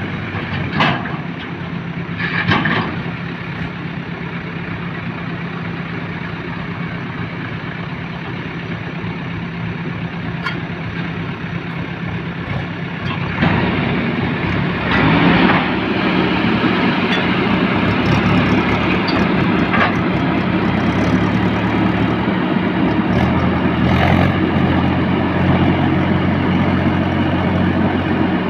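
Heavy diesel engines of a backhoe loader and a tractor running steadily, with a few short knocks or clanks. About 13 seconds in, the engine note rises and grows louder, as under more load.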